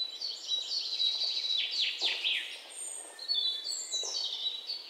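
Birds chirping and singing, with a run of quick downward-swooping calls about two seconds in.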